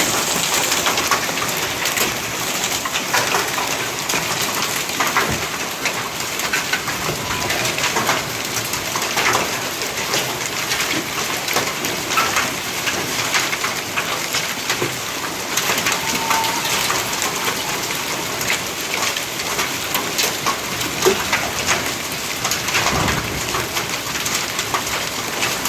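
Hailstorm: a heavy downpour of hail and rain, with many hailstones clicking and clattering as they strike hard surfaces over a steady hiss of rain.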